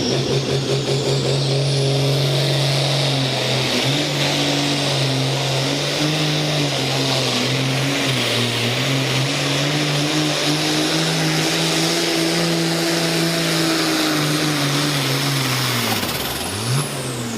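Pulling tractor's engine running hard under load, wavering slightly, with a high whine that climbs over the first few seconds. About sixteen seconds in, the revs drop sharply as the throttle comes off at the end of the pull.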